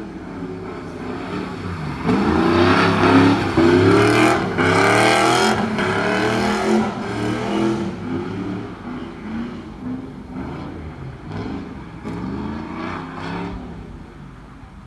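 BMW E46 drift car's engine revving hard again and again, its pitch rising and falling with each throttle blip; loudest a couple of seconds in, then fading off toward the end.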